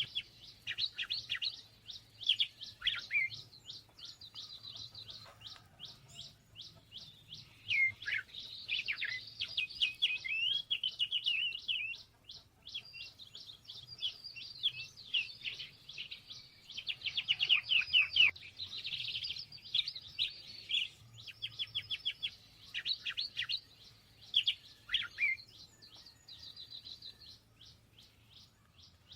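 Small songbirds chirping and twittering in rapid runs of short, high notes, with louder flurries about a third of the way in and again past the middle.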